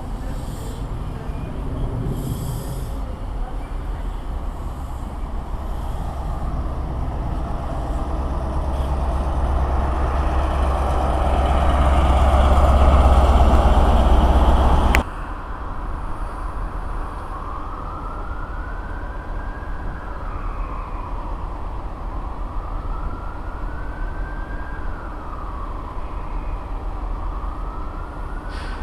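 A train running through the station, its rumble growing steadily louder for about the first half and then cutting off suddenly. A quieter train sound follows, with a faint whine that rises and falls every few seconds.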